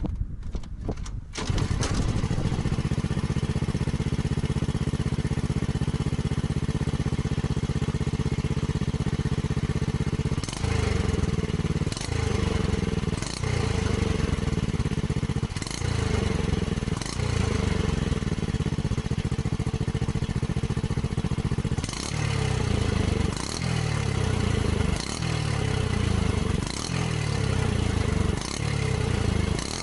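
Honda Super Cub 90's small four-stroke single-cylinder engine starting up about a second and a half in and idling steadily. From about ten seconds in the throttle is blipped over and over, roughly once a second, each rev rising sharply and dropping back to idle.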